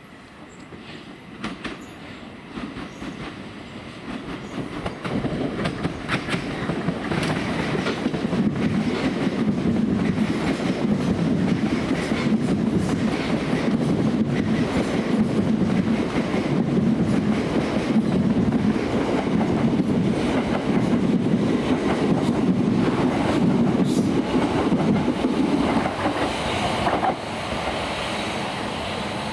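Passenger train approaching and passing close by. Its rumble builds over several seconds and stays loud with wheels clicking over rail joints and points, then eases off near the end.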